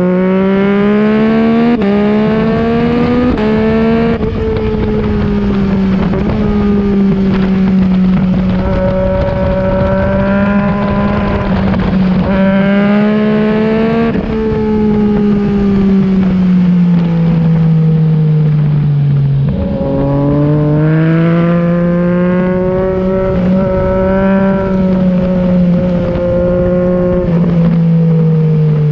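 Yamaha MT-09's inline-three with an Akrapovic exhaust at full track pace. It revs up hard through the gears, the pitch dropping at each quick upshift, then falls away when the throttle is rolled off, and pulls hard again twice more. A steady rush of wind noise runs underneath.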